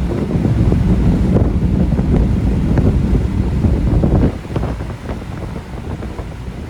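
1966 Ford Mustang's 289 V8 pulling the car down the road, with wind buffeting the microphone. The rumble drops off noticeably about four seconds in.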